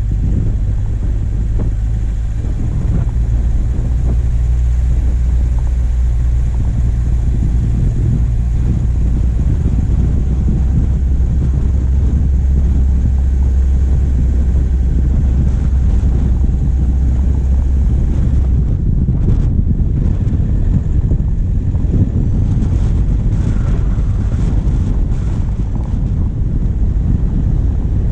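A diesel engine drones as the vehicle drives, under heavy wind buffeting on the bonnet-mounted camera's microphone. The steady low engine hum drops away about 18 seconds in, followed by a few light knocks.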